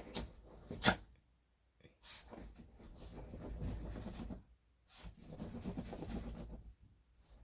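A small dog sneezing once, sharply, about a second in, followed by two stretches of quieter low rustling.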